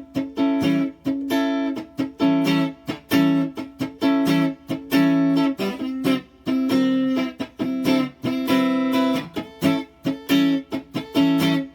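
Donner DST1 Strat-style electric guitar played clean on the neck pickup through a Boss Nextone amp, with the overdrive pedal off: short, choppy chords struck in a steady rhythm with brief gaps between them.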